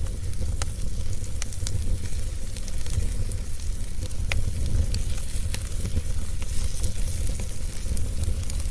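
Wood fire in a fireplace crackling, with irregular sharp pops and snaps over a steady low rumble and hiss.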